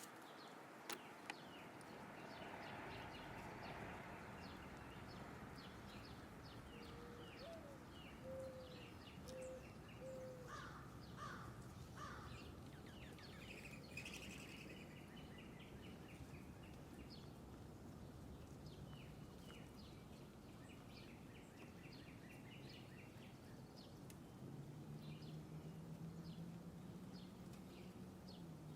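Small birds chirping faintly at a feeder over steady outdoor background noise, with a short run of low hooting notes in the first half and a faint low drone near the end.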